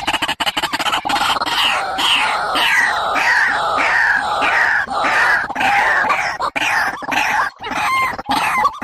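Recorded bird calls played as a trapping lure. A quick run of pulses gives way about a second in to a string of loud down-slurred notes, about two a second, with a few shorter notes near the end.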